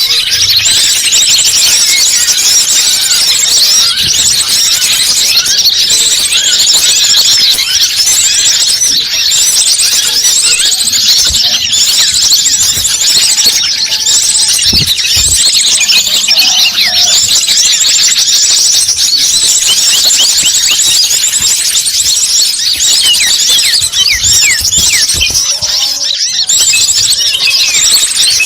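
A dense, unbroken chorus of small birds chirping and twittering in rapid, high-pitched, overlapping notes: a bird-lure (pikat) call recording.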